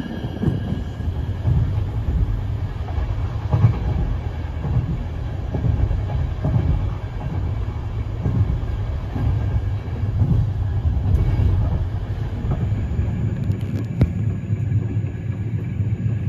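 Passenger train coach rolling along the track, heard inside the carriage: a steady low rumble of wheels on rail that swells and eases, with a few short clicks near the end.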